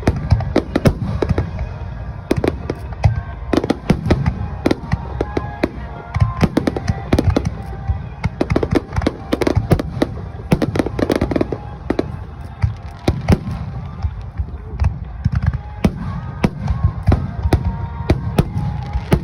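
Aerial fireworks shells bursting in a dense barrage, several sharp bangs a second over a continuous low rumble of overlapping reports, with music playing underneath.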